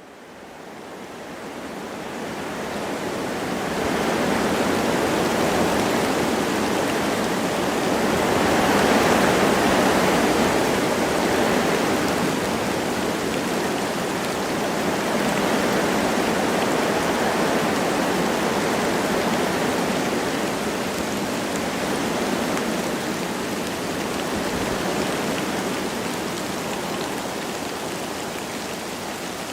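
Wind blowing through forest trees with light rain falling: a steady rushing hiss that fades in over the first few seconds and swells louder about nine seconds in before settling.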